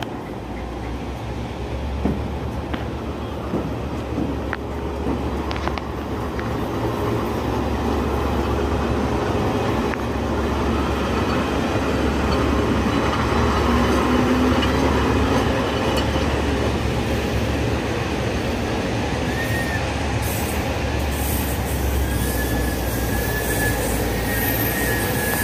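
A train headed by two Taiwan Railways electric locomotives, E200-class E237 and E400-class E405, rolling slowly along a platform. There is a steady low hum, and the running noise grows louder over the first half. Thin, high wheel squeals come in the last few seconds.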